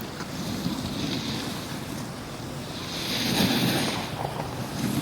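Wind rushing over the microphone with the hiss of edges sliding and scraping on packed snow during a downhill run. It swells and fades in waves, loudest about three and a half seconds in.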